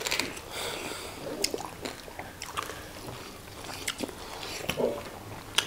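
Close-miked wet chewing and mouth smacks, with scattered short clicks, from people eating fried fish and banku by hand.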